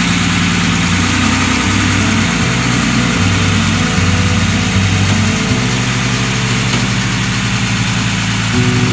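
Mercedes-Benz 280 SE cabriolet's engine idling steadily.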